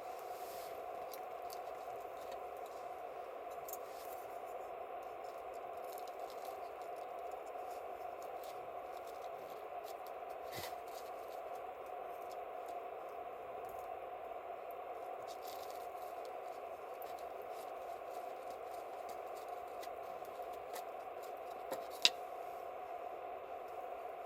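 Wood campfire crackling, with scattered sharp pops over a steady rushing noise. A single loud pop comes near the end.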